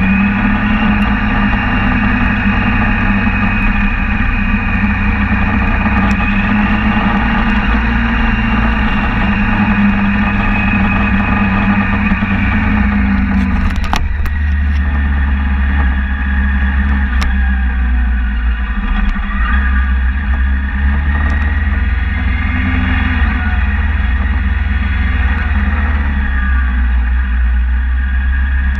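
Sportbike engine running at low, steady revs under heavy wind rumble on the onboard microphone, with a single sharp click about halfway through.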